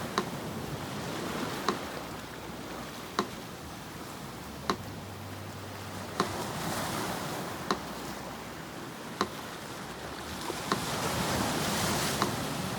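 Sea surf washing in and out, swelling louder about halfway through and again near the end, under a metronome ticking evenly about once every second and a half (roughly 40 beats a minute).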